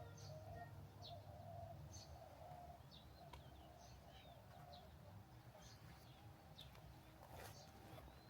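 Faint bird chirps: short, sharply falling high calls, about one or two a second, over a low steady hum.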